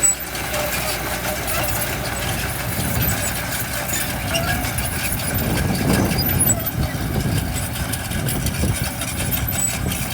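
Heavy diesel engine of earthmoving equipment running steadily, swelling briefly about six seconds in.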